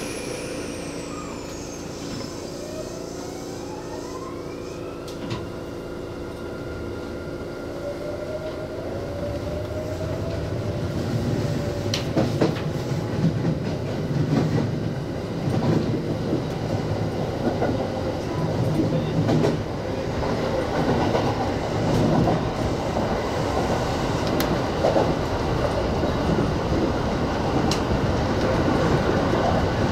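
Kintetsu electric train accelerating: the traction motors' whine rises in pitch over the first several seconds, then the rumble of wheels on rail grows louder, with scattered sharp clicks from the track.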